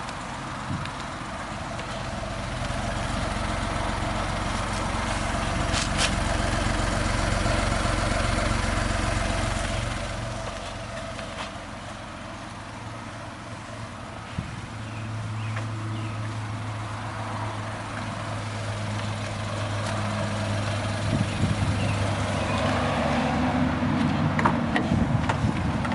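Suzuki Carry kei truck's 660cc three-cylinder engine running, its sound swelling and easing off over several seconds at a time, with a few short knocks near the end.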